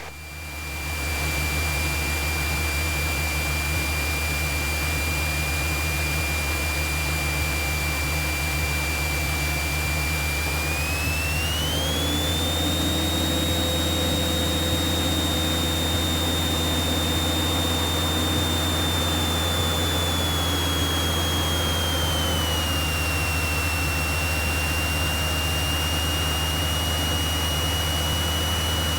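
Light aircraft's engine running at taxi power, a steady low drone heard inside the cabin. A high whine runs over it, rising in pitch about eleven seconds in and easing partway back down about twenty seconds in.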